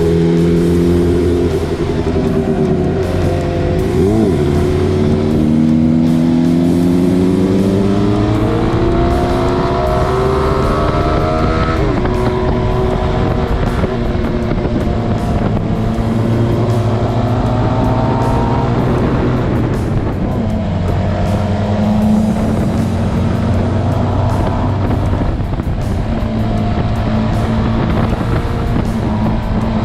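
Motorcycle engine accelerating under load: the revs climb steadily for several seconds, drop sharply at a gear change about twelve seconds in, then rise and fall more gently. Wind and road noise lie underneath.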